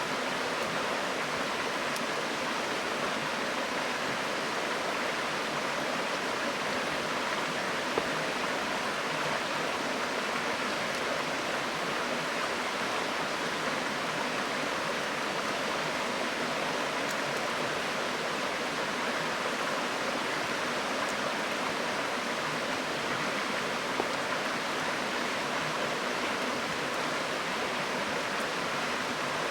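River water flowing steadily, with a few sharp pops from a wood campfire, the two loudest about eight and twenty-four seconds in.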